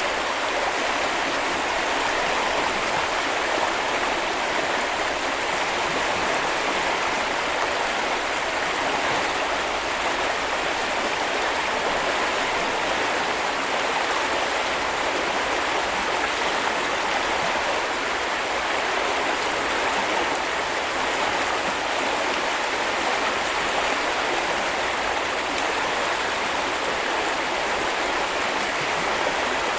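Steady rushing of a small river or brook flowing over stones, an even hiss with no breaks.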